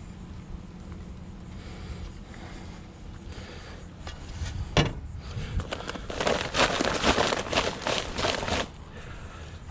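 A single knock, then about two and a half seconds of dense gritty scraping and pouring noise: loose dry material, such as concrete mix, going into a fence-post hole.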